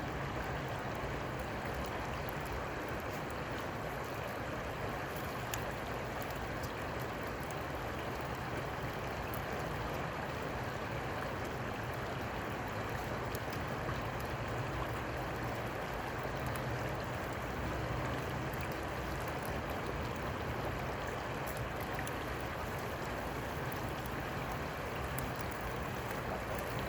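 Steady rush of flowing river water, an even noise with a low rumble underneath.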